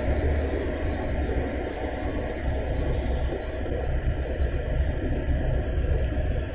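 Steady low rumble of a car driving along a winter road, the engine and tyre noise running evenly.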